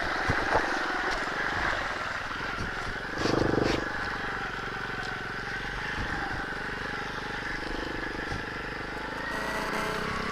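Nitro Sky 125cc pitbike's single-cylinder four-stroke engine running at low speed on a trail, with a short louder burst of throttle about three seconds in.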